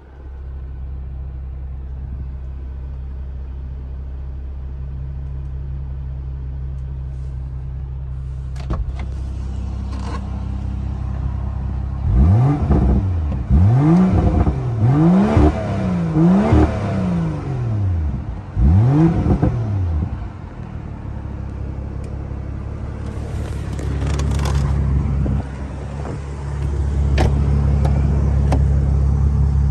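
A 2016 BMW X4 M40i's turbocharged 3.0-litre inline-six starts and settles into a steady idle. From about twelve to twenty seconds in it is blipped through about six quick revs, each rising and falling, then drops back to idle. The idle is louder near the end.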